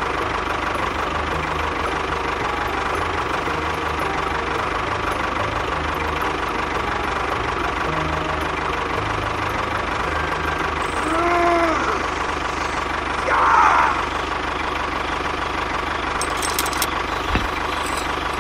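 Tractor engine idling steadily with a knocking chug. Two short squeaks that rise and fall in pitch come about eleven and thirteen seconds in.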